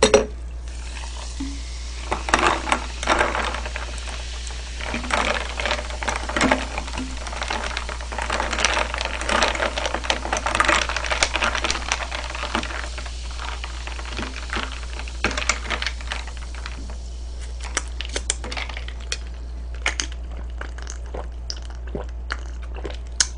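Tabletop handling noise: small clicks, taps and rustles of containers, cups and utensils being moved, over a steady low electrical hum.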